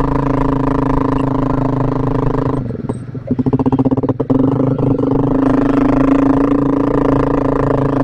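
Yamaha Vixion's single-cylinder four-stroke engine running under way. About three seconds in it falls to a low, evenly pulsing beat for a second or two, then picks up to a steady note again.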